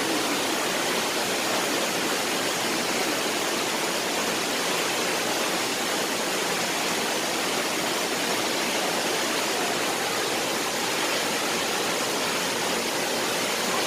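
Steady rush of a large waterfall, Shifen Waterfall's water pouring down.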